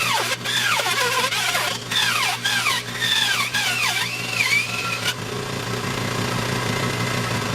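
Woodworking power tool motor running, its whine repeatedly dipping in pitch and recovering about twice a second, then running on steadily from about five seconds in.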